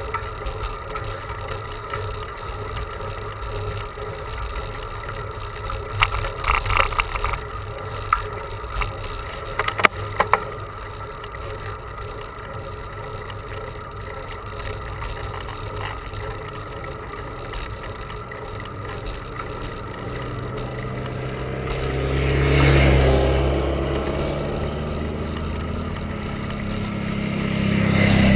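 Steady wind and road noise from a bicycle ride, with a short rattle of clicks about a quarter and a third of the way in. A motor vehicle goes by: its engine hum swells and fades about three-quarters through, and another engine comes up near the end.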